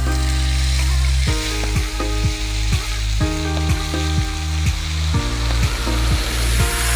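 Cumin seeds sizzling steadily in hot oil in a steel pan, with onion, ginger, garlic and green chilli paste added to the oil partway through. Background music with a steady beat plays over the sizzle.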